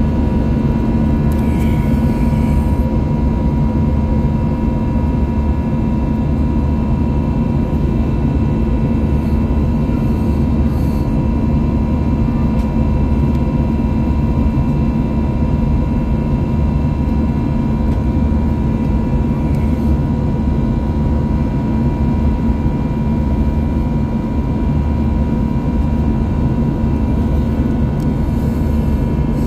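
Airbus A321 cabin drone heard from inside, jet engines running at a steady setting. There is an even low rumble with a thin, steady high whine over it, and no rise or fall in level.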